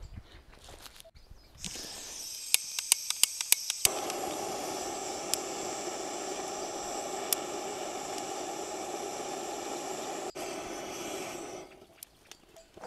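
Handheld gas torch being lit: the gas hisses, the igniter clicks several times in quick succession, and about four seconds in the flame catches and burns with a steady rushing sound until it is shut off near the end.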